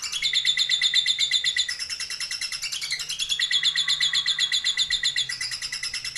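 Lovebird's 'ngekek' song: a long, unbroken chattering trill of rapid high notes, about ten a second, the pitch stepping up and down a few times without a pause.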